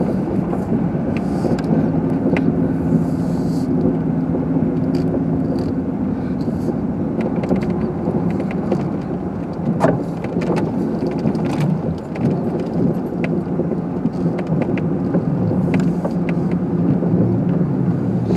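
Car engine and road noise heard from inside the cabin while driving, a steady low hum with a brief knock about ten seconds in.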